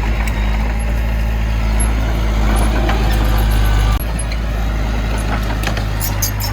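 Heavy diesel engine of earthmoving machinery running steadily under load, its low drone dropping abruptly about four seconds in. Scattered metallic clicks and clanks come near the end.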